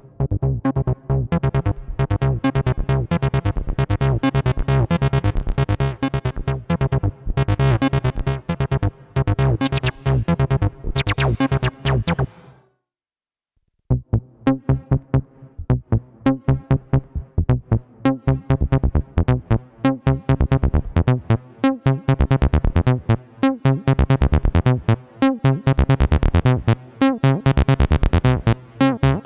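Behringer TD-3-MO bass synthesizer playing a repeating acid bassline sequence of fast, short notes. The pattern stops about twelve seconds in, falls silent for a second or so, then a new sequence starts.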